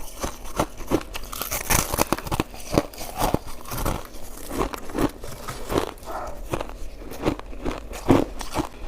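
Close-miked chewing and crunching of icy shaved-ice dessert: sharp, irregular crunches about two to three times a second.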